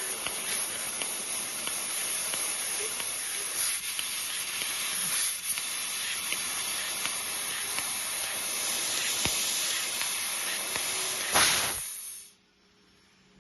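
Fiber laser cutting machine running with a steady hiss and a high whine over it. About eleven seconds in there is a short, louder rush, then the hiss cuts off sharply, leaving near quiet.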